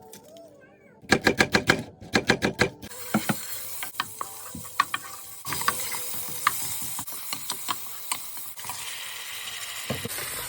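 A quick run of sharp clattering clicks, then about three seconds in a sudden steady sizzle as onions go into hot oil and fry, with occasional clicks of a utensil stirring in the pan.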